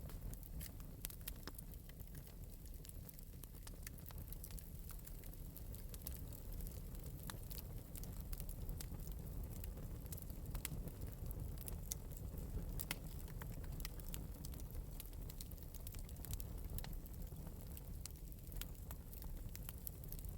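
Fire in an open metal fireplace crackling, with small irregular pops over a low, steady rumble.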